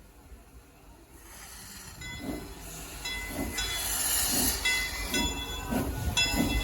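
Steam locomotive working, its exhaust chuffing in an even beat just under twice a second, with steam hissing. The chuffing grows louder from about a second in.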